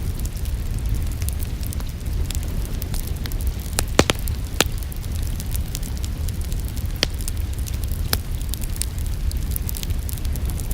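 Wood fire in a fireplace crackling over a steady low rumble, with a few sharper, louder pops around the middle.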